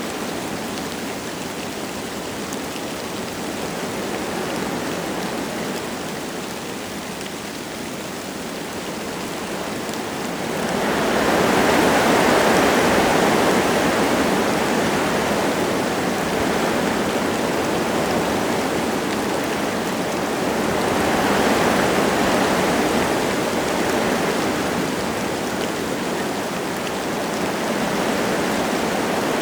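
Wind gusting through forest trees with light rain falling, a steady rushing noise. Gusts swell louder about eleven seconds in and again around twenty-one seconds, then ease.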